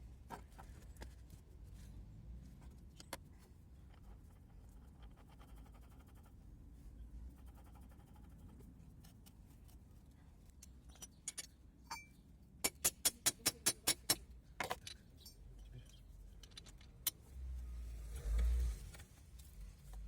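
Metal tools clinking and knocking against metal parts, with a quick run of about nine sharp, evenly spaced clicks near the middle and a low rumble near the end.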